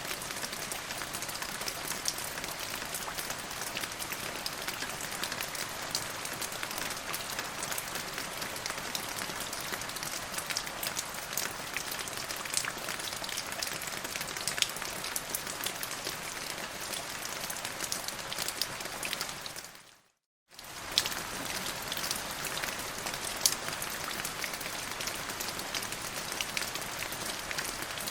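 Steady rain falling, with many small drop ticks through the hiss. About twenty seconds in it fades to silence for under a second, then returns.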